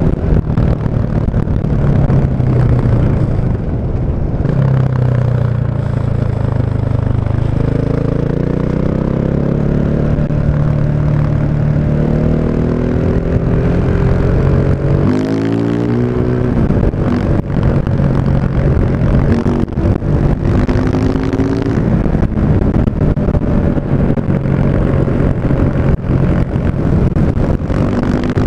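KTM 690 Enduro's single-cylinder engine through an Akrapovic exhaust, running loud under changing throttle. Its pitch climbs over several seconds, swings sharply about halfway through, then keeps rising and falling.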